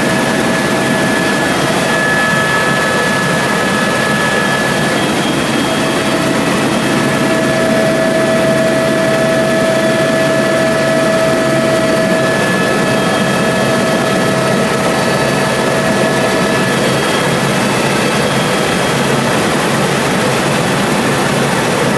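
Helicopter in flight heard from inside the cabin: a steady, loud engine and rotor noise with a few steady whining tones on top.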